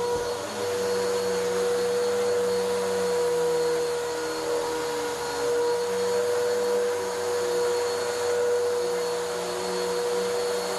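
Vacuum cleaner running steadily over carpet during pre-vacuuming. Its motor gives a constant whine over the rush of air, with a lower hum that wavers.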